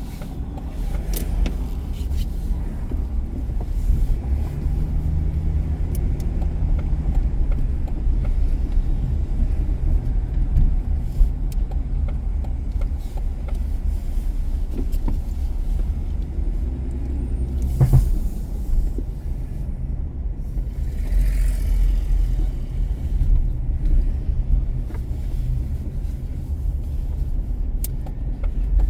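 A car driving, with a steady low road and engine rumble and a faint engine hum that rises and falls. There is a single sharp knock about eighteen seconds in.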